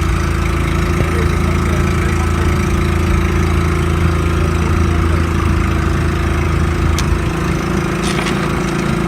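Hired boat's engine running steadily, with a single sharp click about seven seconds in.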